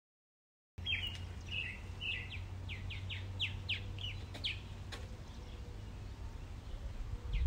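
A bird chirping in a quick run of short, falling notes, about three a second, starting about a second in, over a low steady rumble.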